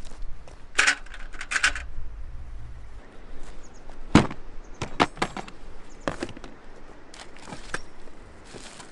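Several sharp knocks and clatters at irregular spacing, with rustling in the first couple of seconds; the loudest knock comes about four seconds in.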